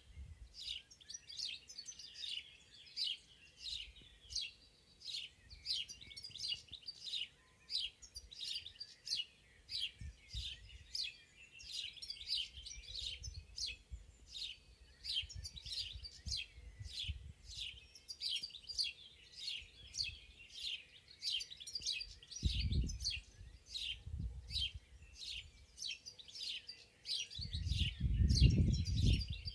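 Forest birds chirping and singing without a break, many quick high notes several times a second. A low rumble comes in briefly about 22 seconds in and again, louder, near the end.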